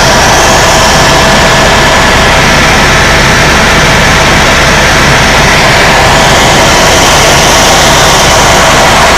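Tour helicopter in flight, heard from inside the cabin: a loud, steady wash of turbine and rotor noise with a faint constant whine running through it.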